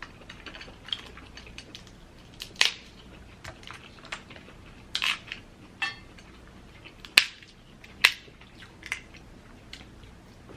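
Dungeness crab leg shells being cracked open, close up: a few sharp, loud cracks spaced a couple of seconds apart, with smaller crunching and clicking between them.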